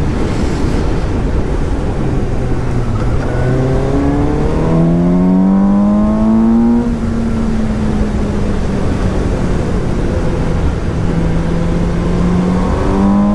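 2017 Suzuki GSX-S750's inline four-cylinder engine under way. Its revs climb steadily for a few seconds as it accelerates, then ease back and hold fairly steady, and rise again near the end.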